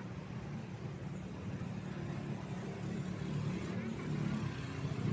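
Motor vehicle engines running close by in road traffic, a steady low rumble that grows a little louder near the end.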